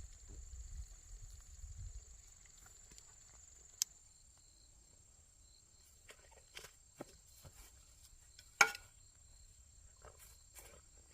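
Steady, high-pitched chirring of insects, with scattered sharp clicks and knocks, the loudest about two-thirds of the way through, and a low rumble in the first couple of seconds.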